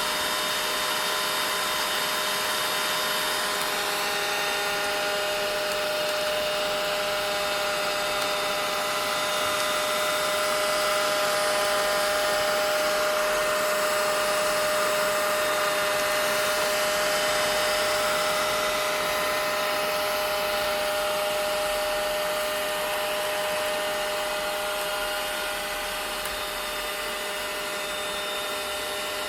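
Vacuum cleaner running steadily: a constant rush of air with a steady high whine from the motor. It grows a little louder about ten seconds in and eases back down in the last few seconds.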